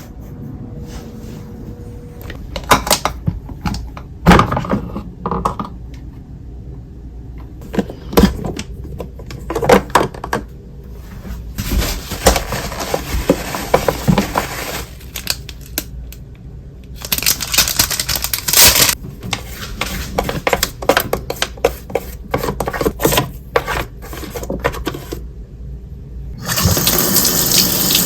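Water running from a tap in several spells, with knocks and clatter of things being handled in between.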